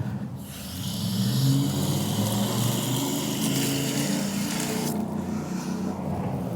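Garden hose spraying water onto dry concrete mix, a steady hiss that starts about half a second in and stops about five seconds in, to loosen the mix. Under it runs a steady low motor hum.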